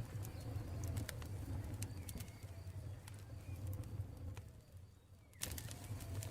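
Campfire crackling with scattered pops, with birds calling in the background. About five seconds in the sound dips almost away, then cuts back in abruptly with denser crackling.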